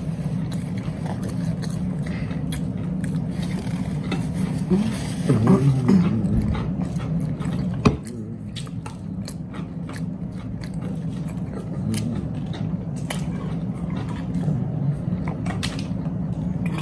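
People chewing and biting into food close to the microphone, with scattered small crunches and clicks, over a steady low hum.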